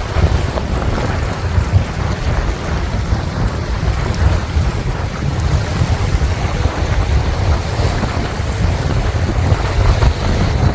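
Strong wind buffeting the microphone: a loud, low, gusting noise that rises and falls.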